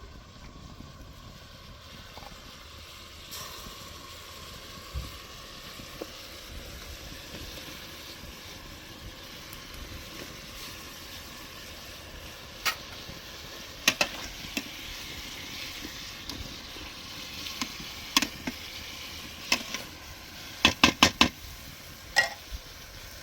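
Steady sizzling, as of food frying, with a few sharp knocks here and there and a quick run of about five louder knocks near the end.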